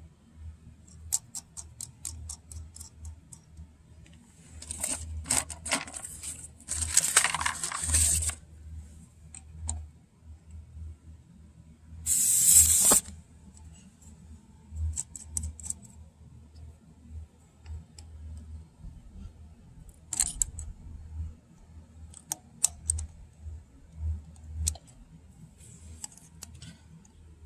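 Small clicks and light metallic rattling of small parts being handled at a tire valve stem, with a couple of louder clattering stretches and a short hiss about twelve seconds in.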